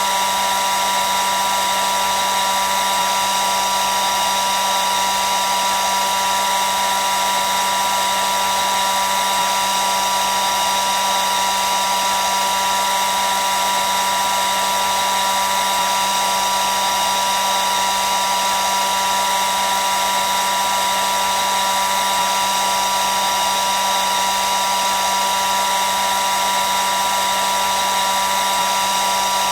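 Hair dryer running steadily on one setting: a constant rush of blown air with a steady motor whine, most prominent as a high tone around 1 kHz.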